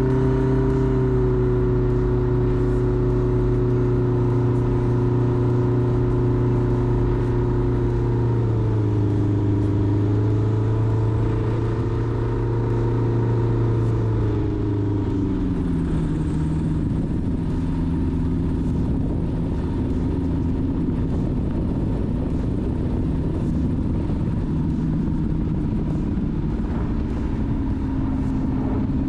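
Light aircraft's piston engine and propeller running in flight, a steady drone whose pitch steps down about nine seconds in and again around fifteen seconds as engine speed is reduced.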